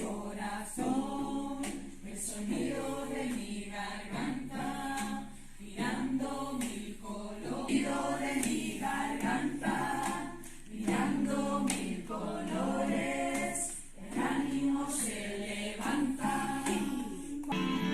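A group of voices singing together without instruments, in phrases of a second or two.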